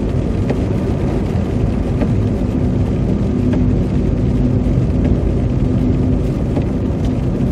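Steady road and engine noise inside a moving car's cabin on a slushy winter road, a continuous low rumble with tyre noise. Faint ticks come every second or two, and a faint steady hum shows through in the middle.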